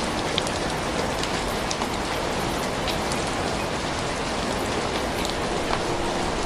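Steady rain: an even hiss with scattered sharper drops ticking through it.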